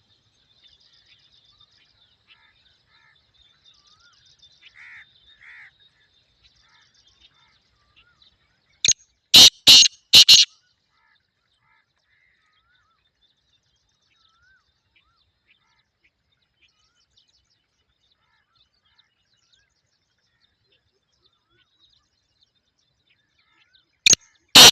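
Black francolin calling: a loud series of four or five harsh, grating notes about nine seconds in, and again as a new call starts near the end. Faint chirping from small birds comes before the first call.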